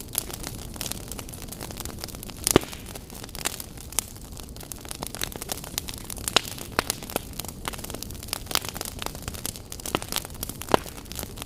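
Wood fire burning in a fireplace: irregular crackles and sharp pops over a steady low rush, with the loudest pop about two and a half seconds in.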